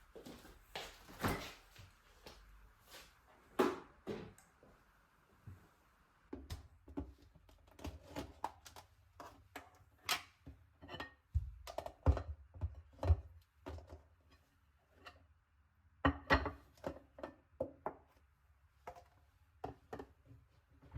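Irregular light knocks, taps and clicks of household objects being handled and set down, several a second in busy stretches.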